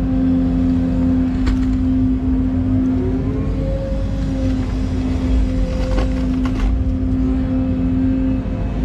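Excavator working: the diesel engine runs steadily under load with a constant hydraulic whine, the pitch briefly rising about three seconds in, and a few sharp knocks from the digging gear.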